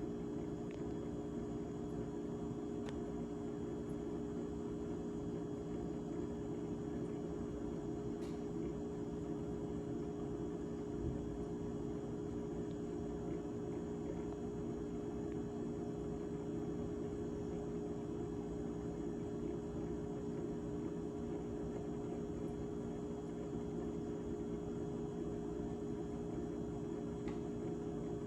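GE GTH18XCTZRBB refrigerator running with a steady hum made of several held tones.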